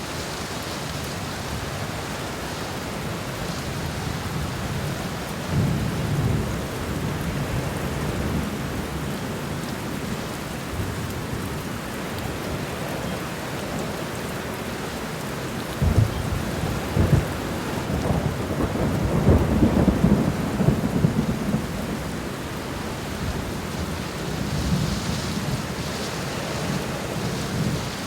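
Steady rain falling on the ground and garden plants, with low rumbling swells now and then, the strongest about two-thirds of the way through.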